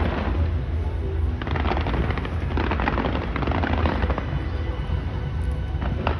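Fireworks going off: a dense run of rapid crackling shots from about a second and a half in to about four and a half seconds, picking up again near the end, over a steady low rumble.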